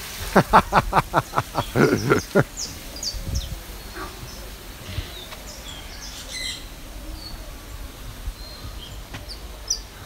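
Birds chirping: short high chirps scattered through, after a rapid run of loud pulsed sounds in the first two seconds or so.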